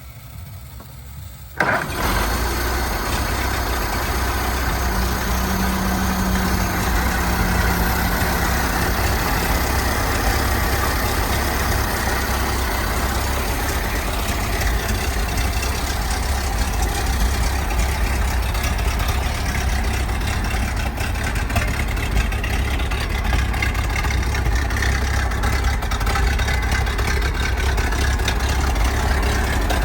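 1921 Ford Model T dump truck's four-cylinder engine catching suddenly about two seconds in, then running steadily.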